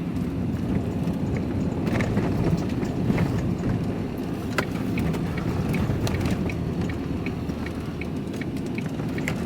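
Van driving on the road, heard from inside the cab: a steady rumble of engine and tyres, with faint light ticks about twice a second through the second half.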